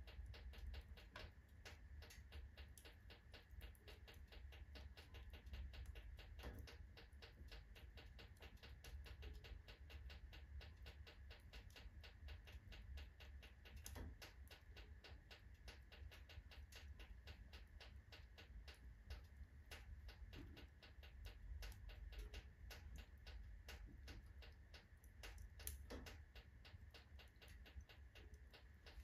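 Wood fire crackling in a fireplace stove: a dense run of small irregular pops and ticks over a faint low rumble of the burning fire.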